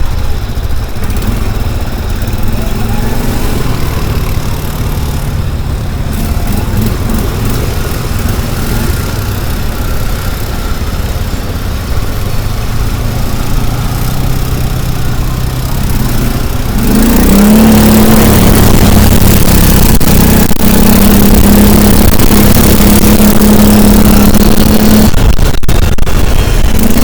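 Vehicle engine running on the move, heard close up from a camera mounted on the vehicle; about 17 seconds in it revs up and holds a louder, higher steady note, with wind and road noise rising with it and a few knocks near the end.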